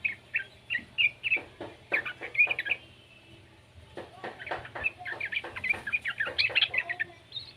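Young yellow-vented bulbul (trucukan) chattering in two quick bouts of short, bright chirping notes, with a pause of about a second between them.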